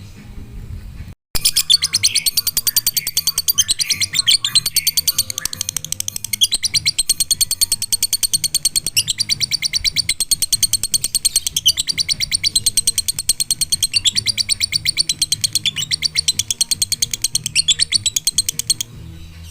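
A lovebird singing 'ngekek': one long unbroken run of rapid, shrill chirps repeated many times a second, lasting about seventeen seconds. It starts abruptly and stops abruptly near the end.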